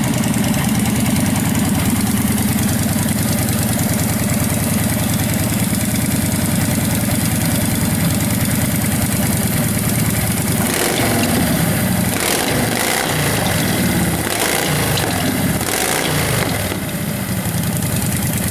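Large engine running at a steady idle, then revved in several quick blips for a few seconds before settling back to idle.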